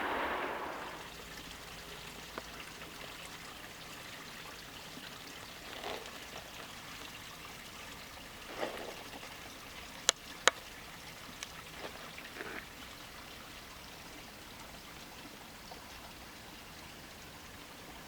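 A train fading away in the first second, then a faint, even outdoor hush with a few soft scattered ticks and two sharp clicks near the middle.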